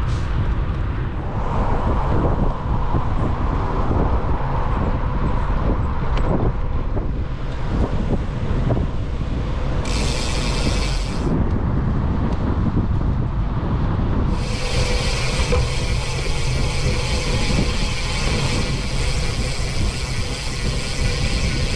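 Wind buffeting the microphone on a moving bicycle. A high hiss comes in for about a second around ten seconds in, then returns and holds from about fourteen seconds in.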